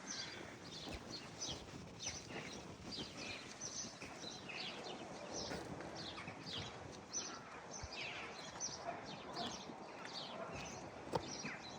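Small birds chirping, many short high notes sliding downward, several a second, over a steady background hum.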